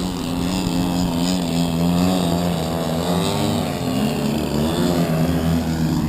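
Engines of radio-controlled aerobatic model airplanes running steadily during low passes, their drone wavering slightly in pitch.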